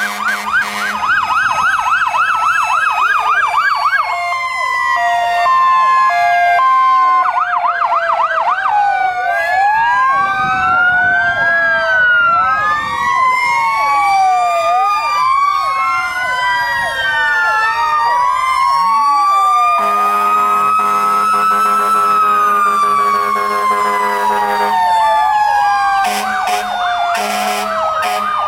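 Several fire trucks' sirens sounding at once: overlapping wails rising and falling, with fast warbling yelps. A steady low air horn blast sounds at the very start, and a longer one comes about two-thirds of the way through.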